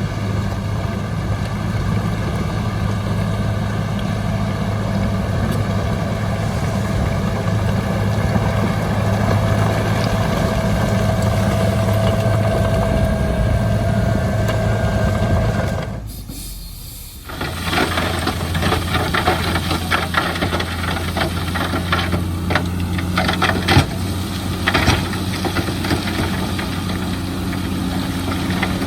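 Heavy diesel earthmoving machinery running steadily. About sixteen seconds in the sound drops away for a moment, then an engine runs again with scattered clanks and rattles.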